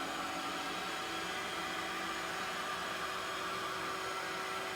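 Ecovacs Winbot window-cleaning robot running on the glass: the steady whir of its suction fan, with a faint steady hum.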